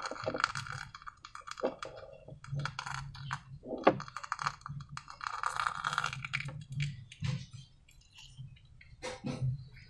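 Slime being worked by hand with balloons, making irregular crackling, clicking and sticky squelching sounds, with a sharper snap about four seconds in.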